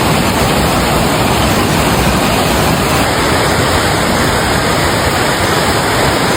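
Twin waterfalls, a 153 ft and a 50 ft drop, pouring side by side: a steady, loud rush of falling water.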